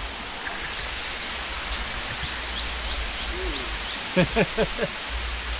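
Steady rushing noise of a waterfall, with a low rumble of wind on the microphone. A little after four seconds in, four short, falling vocal calls come in quick succession and stand out as the loudest sound.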